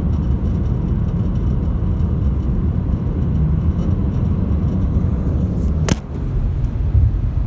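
Steady low road and wind rumble of a 2018 Lexus RX 450h driving at highway speed, with one sharp click about six seconds in.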